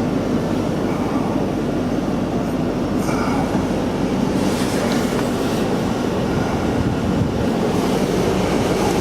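Jeep engine idling steadily after a cold start in deep snow, a constant low rumble. A few brief hissing scrapes come through above it, about halfway through and near the end.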